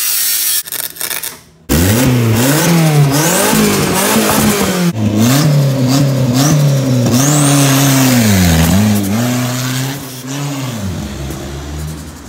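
Engine of a Honda CR-V-based dune buggy, revving up and down repeatedly. It starts suddenly about one and a half seconds in, after a few clicks, and eases off near the end.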